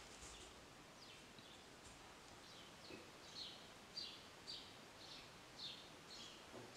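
Faint bird chirping: short, high chirps that fall in pitch, repeated about twice a second over quiet room tone.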